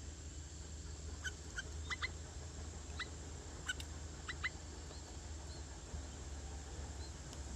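Short, sharp, high bird calls, about eight of them, several in quick pairs, through the first half, then a few faint chirps, over a steady low hum.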